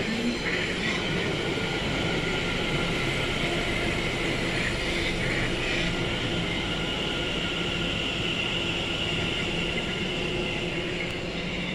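London Overground Class 710 electric multiple unit running past along the platform: a steady rumble of wheels on rails, with a steady high whine over it.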